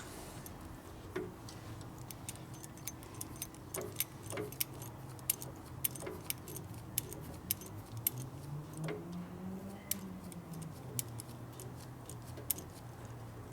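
Small metal tools and parts clinking and tapping in irregular light clicks as they are handled, over a faint low hum that swells and falls back about nine seconds in.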